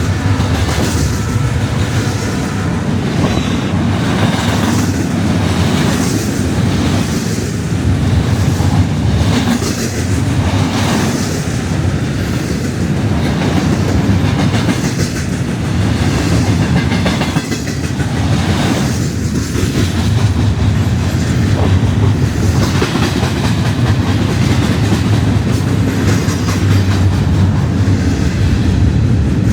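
Freight cars of an empty garbage train rolling past at speed: a steady rumble of wheels on rail, with a repeating clickety-clack about once a second as the wheels cross rail joints.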